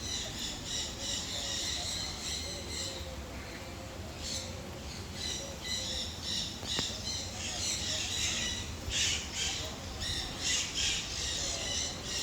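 Parrots squawking: many harsh, overlapping calls, one after another.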